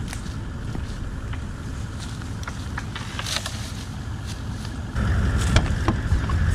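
A vehicle engine idling steadily, with scattered snaps and crackles of dry branches and footsteps. About five seconds in it gets suddenly louder, as heard close to the open cab.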